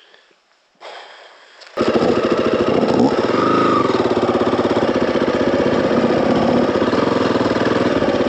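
Dirt bike engine running steadily, coming in abruptly about two seconds in after a near-quiet start.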